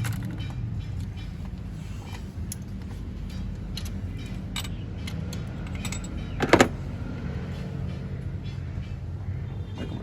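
Toyota GLI engine idling steadily, with scattered metallic clinks of tools and one sharp clank about six and a half seconds in.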